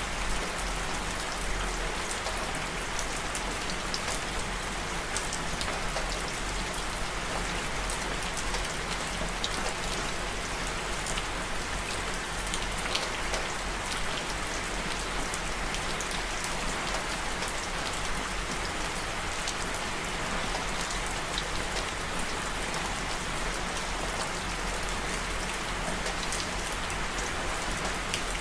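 Steady rain falling, a dense even hiss of drops with many small individual drop ticks on top and a low rumble underneath.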